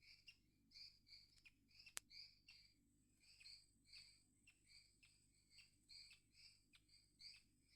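A jacamar (bico-de-agulha) calling over and over, short chirps about twice a second, the 'gossip' alarm of a bird giving away a person in the forest. A faint steady insect whine sits above it, and a single sharp click sounds about two seconds in.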